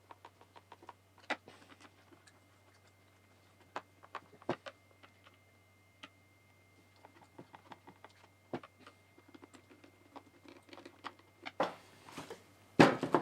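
Scattered light clicks and taps of small parts being handled as the plastic brush guard is refitted on an electric chainsaw, with a few louder knocks and a burst of clatter near the end.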